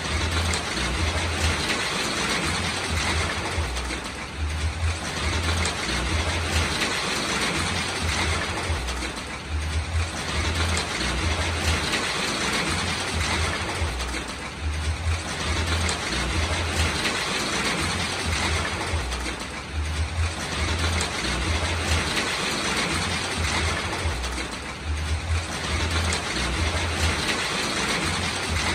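Steady rain hiss with a low rumble underneath, easing slightly about every five seconds.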